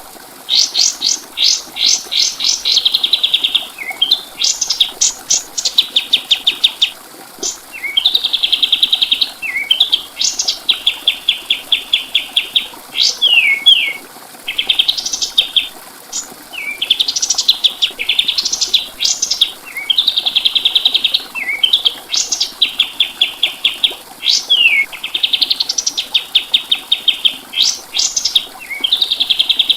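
Kapas tembak bird singing: fast, high trills of rapid repeated notes, phrase after phrase a second or two long, broken by short down-slurred notes.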